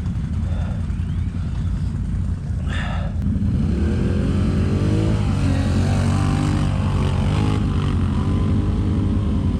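ATV engine running low and steady, then revving harder from about three seconds in and rising and falling in pitch as it pulls up a steep climb.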